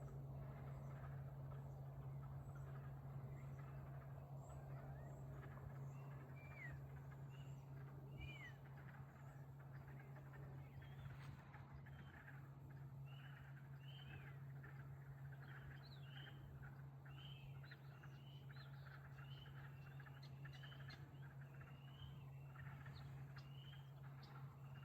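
Faint outdoor ambience. A bird gives short chirps, sparse at first, then repeated about once a second, over a steady low hum.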